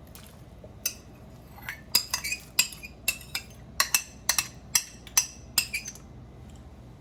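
Metal utensil clinking repeatedly against a dish while mixing in an egg: about fifteen quick, uneven taps, two to three a second, starting about a second in and stopping near the end.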